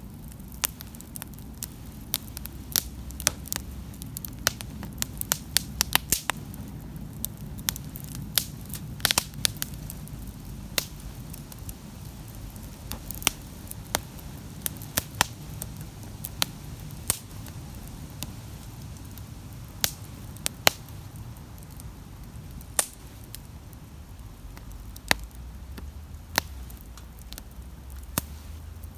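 Wood campfire crackling, with frequent sharp pops and snaps over a low steady rumble. The pops come thick in the first ten seconds or so and thin out after.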